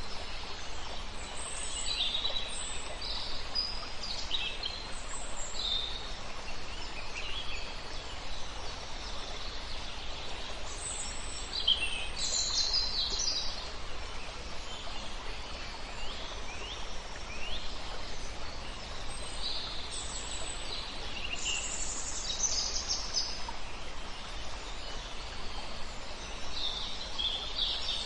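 Several songbirds singing and calling in short high phrases, some notes sliding down in pitch, over the steady rush of a flowing river.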